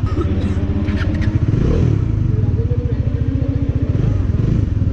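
Bajaj Dominar 400's single-cylinder engine idling with a fast, even thump, swelling briefly about a second and a half in as the throttle is blipped.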